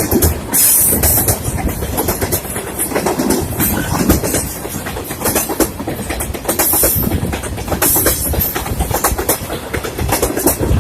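A train rolling along the rails, loud and continuous, its wheels clattering with many sharp clacks over the rail joints.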